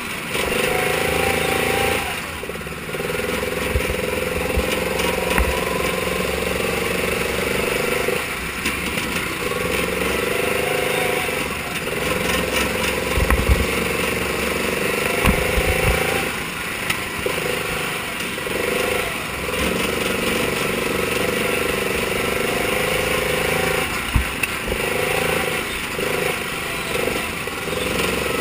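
Mini sprint car engines running on track. A high, steady engine note holds, then drops out briefly every few seconds before picking up again.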